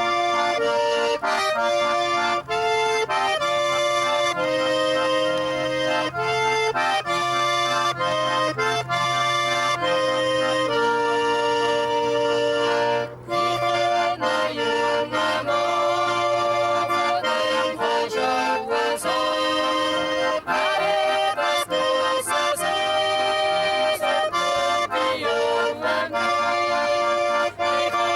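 Accordion playing a lively traditional folk dance tune, note after note, with a brief break in the playing about 13 seconds in.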